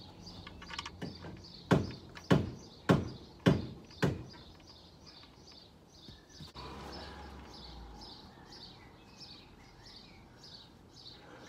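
A small bird chirping over and over in the background. About two seconds in come five loud knocks in quick succession, roughly two a second.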